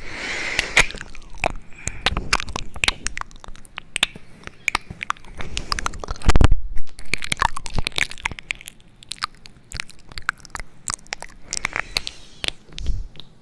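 Close-up crunching and crackling: a rapid, irregular run of crisp clicks, with one louder, deeper thump about six seconds in.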